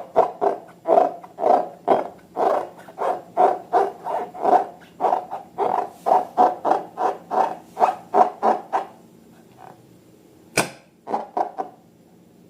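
Slime being squeezed and worked by hand, making a rhythmic squishing, about two to three squishes a second. The squishing stops about nine seconds in. A single sharp click comes near the end, followed by a few softer squishes.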